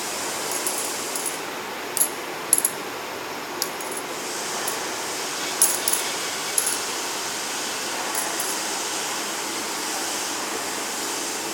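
Small glass washing machine for watch glass running, with a steady hiss of water spray and sharp clinks every second or so.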